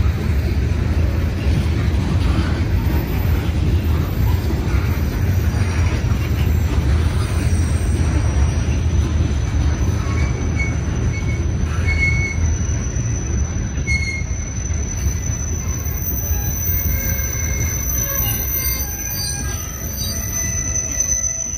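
Freight train of covered hopper cars rolling past close by: a loud, steady rumble of steel wheels on rail. From about halfway through, brief high-pitched wheel squeals break in over the rumble.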